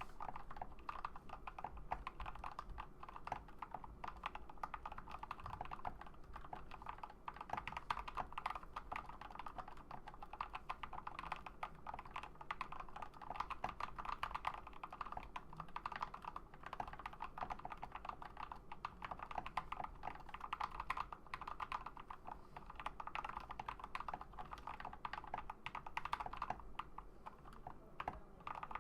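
Continuous, fast typing on a custom-built GamaKay LK67 65% mechanical keyboard: a dense run of key clicks and clacks as the switches bottom out and return.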